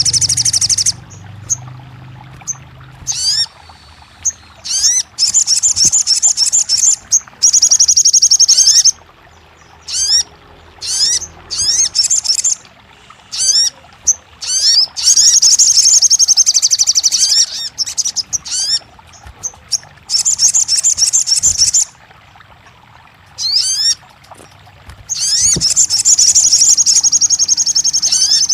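Sogon birdsong: long, loud, high rapid trills lasting a few seconds each, alternating with single short rising chirps and brief pauses.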